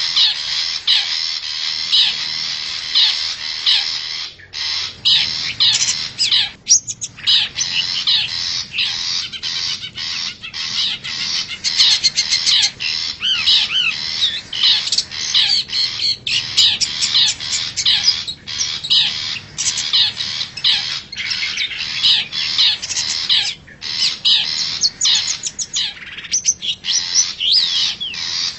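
Long-tailed shrike (cendet) calling without pause: a dense run of quick notes and rising and falling whistled slurs, broken by short gaps about four, seven and twenty-three seconds in.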